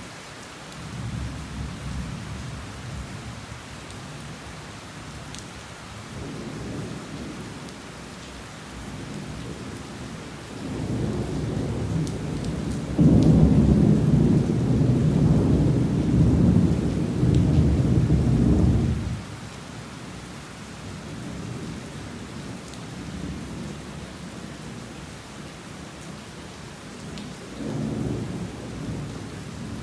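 Heavy rain falling steadily with rolls of thunder rumbling over it. The loudest roll builds about a third of the way in, holds for several seconds and cuts off suddenly; a fresh rumble starts near the end.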